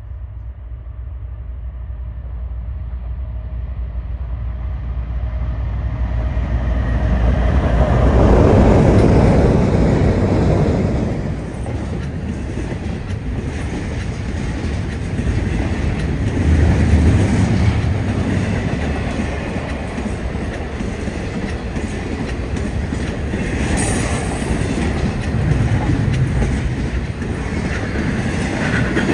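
BNSF freight train passing: the diesel locomotives grow louder to a peak about eight to ten seconds in, then the intermodal cars roll by with a steady rumble and clickety-clack of wheels over the rail joints. A brief wheel squeal comes about three quarters of the way through.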